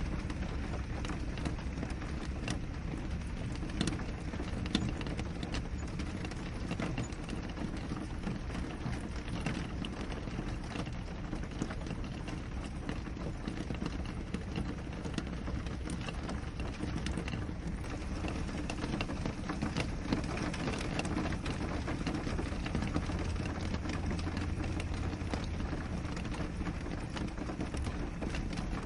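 Steady rain falling on a window: a constant hiss with many separate drops tapping the glass.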